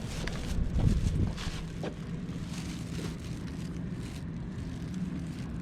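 Steady low hum of an idling vehicle engine, with wind on the microphone and a few brief rustling knocks in the first couple of seconds.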